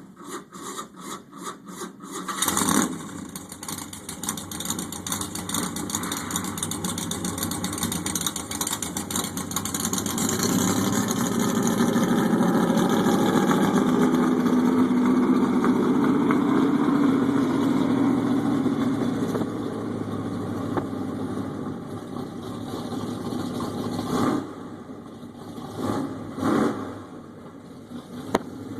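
1976 Ford pulling truck's engine being cranked over by the starter for a couple of seconds, then catching and running. Its revs build to a higher steady run in the middle, settle back lower, and near the end it is blipped a few times.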